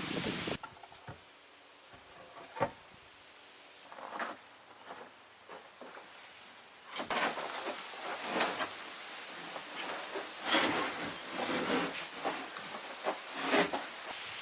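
Scattered knocks and rubbing handling sounds, a few single knocks at first, then coming thick and fast from about seven seconds in.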